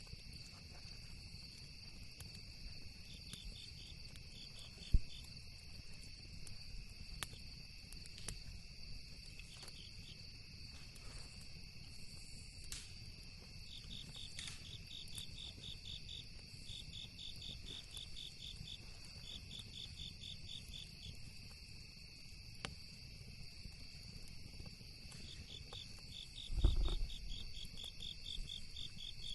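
Insects chirping steadily in pulsing trills, over the scattered crackles and pops of a campfire, with one sharp pop about five seconds in. A low thump comes near the end.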